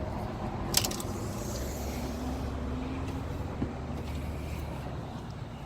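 A vehicle engine running with a steady low rumble and a faint, slowly rising tone in the middle. There is a short click a little under a second in and a sharp knock at the very end.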